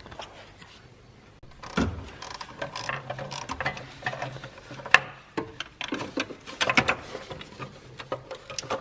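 Hand ratchet clicking in quick runs on a bolt, with sharp metal knocks and clanks of tools and car parts in between.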